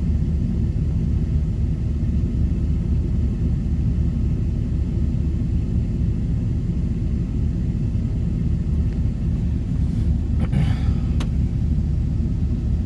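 Car engine idling with the air conditioning running: a steady low rumble, heard from inside the cabin. A few brief clicks come about ten and a half seconds in.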